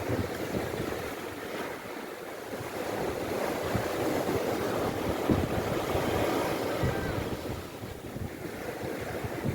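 Sea waves washing onto the shore, the surf swelling through the middle, with wind buffeting the microphone.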